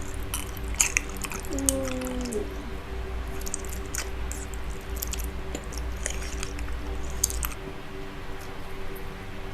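Close-miked chewing and biting of candy, with many small wet, crackly mouth clicks, over a faint steady hum that stops near the end. A short falling tone sounds about two seconds in.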